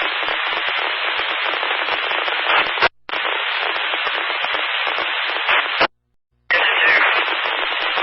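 Scanner radio static: a loud hiss and crackle from keyed transmissions with no clear words. It cuts off abruptly twice, just before three seconds in and near six seconds, the second time for about half a second before the noise returns.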